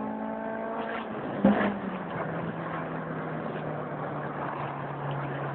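Honda Integra GSR's VTEC four-cylinder engine running at a steady high pitch, with a sharp loud pop about a second and a half in, after which it settles to a lower steady drone.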